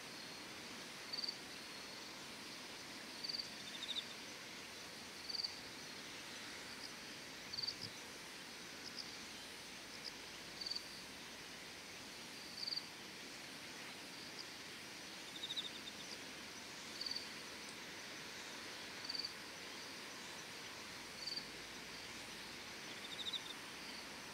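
Insects chirping at dusk: a short high chirp about every two seconds, with a brief rasping trill of a few pulses three times, over a faint steady hiss.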